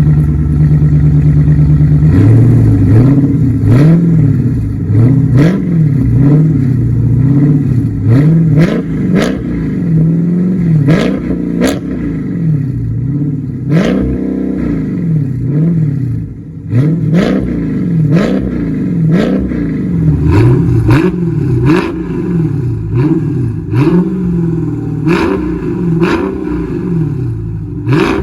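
A 2020 Dodge Charger Scat Pack's 392 HEMI V8 is heard through a Tunnel Ram performance exhaust. It holds a steady note for about two seconds, then is revved again and again in quick blips, the pitch climbing and falling each time. Sharp pops or cracks come with many of the revs.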